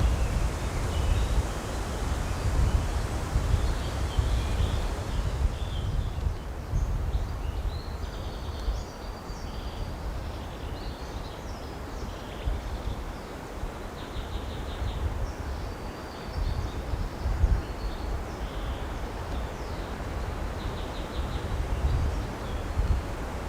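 Wind rumbling unevenly on the microphone, with several small birds singing short phrases in the background.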